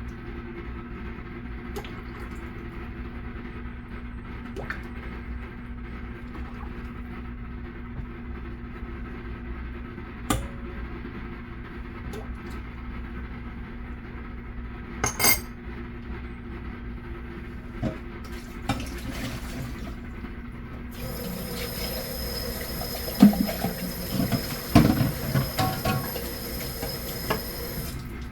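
Steady hum of a running kitchen appliance with a few sharp clicks. From about two-thirds of the way in, a higher steady whine joins and dishes or glassware clink several times.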